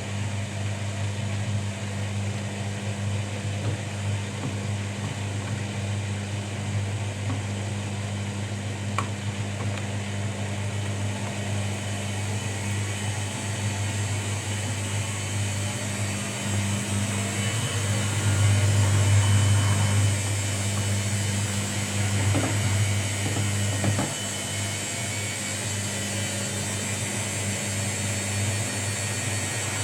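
Washing machine running mid-cycle: a steady motor hum with the drum turning, swelling briefly a little past halfway, with a few light clicks.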